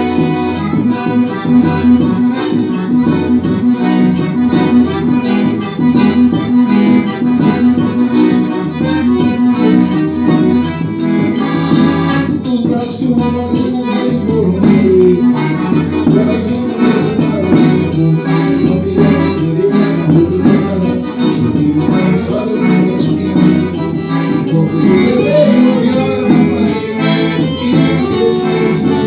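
Forró music: an accordion playing a melody over a steady percussion beat.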